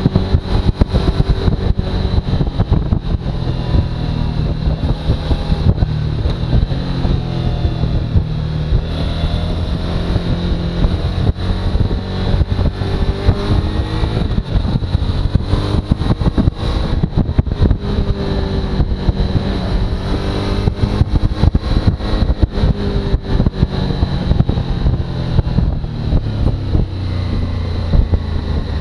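Suzuki V-Strom motorcycle under way, its engine note rising and falling gently with the throttle, under heavy wind buffeting on the microphone. A thin, steady high whine runs through it.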